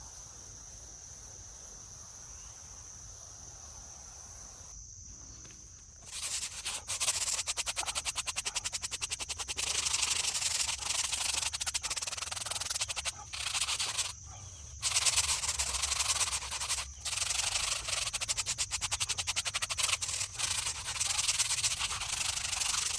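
Steady high insect trill; about six seconds in, a brush starts scrubbing a stone gravestone in rapid back-and-forth strokes, with a few short pauses.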